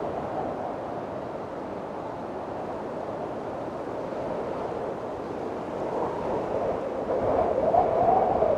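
Storm wind blowing steadily in a rushing hiss. Near the end a stronger gust swells, with a wavering whistling tone.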